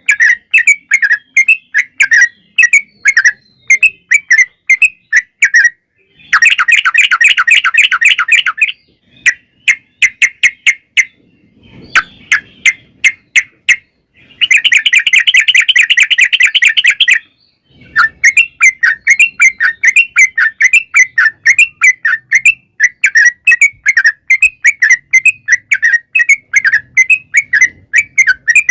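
Yellow-vented bulbul (trucukan) singing: strings of quick repeated chirps, broken twice by long rapid trills of two to three seconds each, about six seconds in and again about fourteen seconds in.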